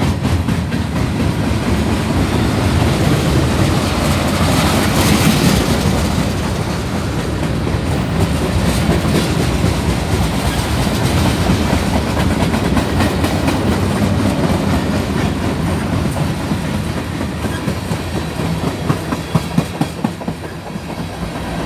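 Freight train cars rolling past on the rails: a steady, loud rumble of wheels on track, with sharper clicks of wheels over rail joints near the end.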